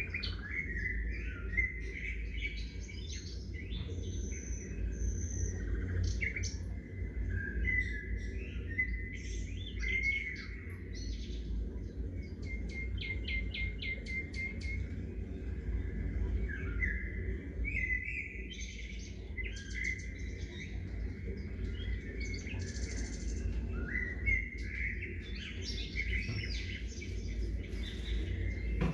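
Several small songbirds chirping and trilling, many short calls overlapping one another, over a steady low outdoor rumble.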